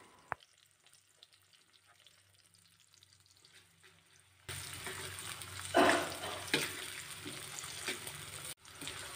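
Near silence with a single click at first, then, about halfway in, sliced onions, garlic and shallots start sizzling in hot oil in an aluminium wok, with a metal spatula scraping the pan a couple of times as they are stir-fried.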